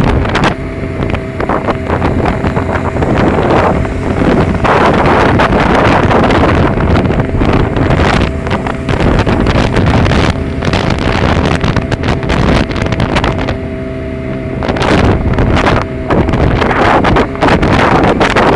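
Motorcycle engine running at a steady pitch, heavily masked by wind buffeting the microphone.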